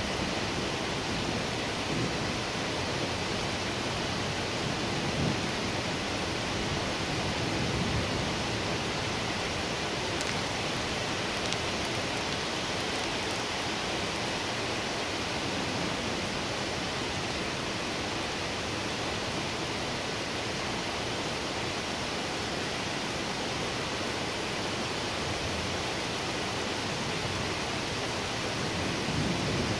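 Heavy rain pouring down in a thunderstorm: a steady, even hiss.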